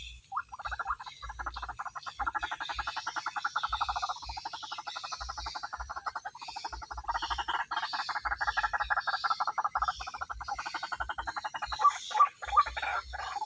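White-breasted waterhen (ruak-ruak) calling: long runs of rapid croaking pulses, broken briefly about four seconds in, then a few separate louder calls near the end.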